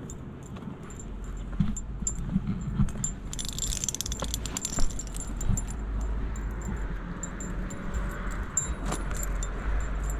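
Light metallic jingling, clearest about three to five seconds in, with scattered small clicks, over the low rumble of a vehicle that comes up about a second in.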